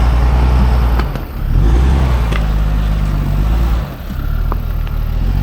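Pickup truck engine running with a deep, loud rumble that eases off twice and comes back on, as the truck is worked over rocks under throttle, with a few sharp knocks.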